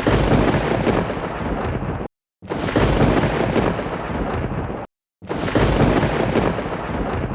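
Thunder sound effect: three loud, rumbling thunderclaps of about two and a half seconds each, each starting suddenly and cut off abruptly, with a brief dead silence between them, like an edited, looped clip.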